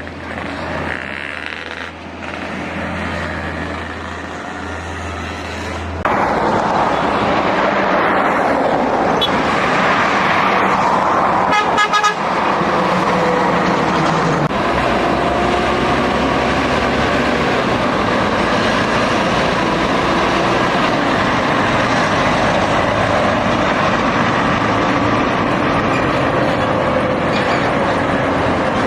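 Heavy diesel truck driving past close by: the engine and road noise jump up suddenly about six seconds in and stay loud and steady, with a horn sounding.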